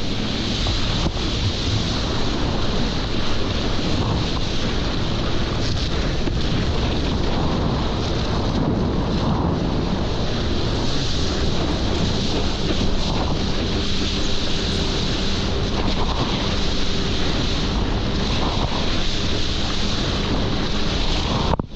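Heavy wind noise on the microphone over a steady engine drone.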